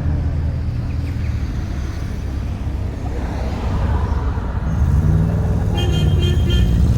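Car engine running, its pitch rising as it revs up in the second half. About six seconds in there is a short high-pitched beep.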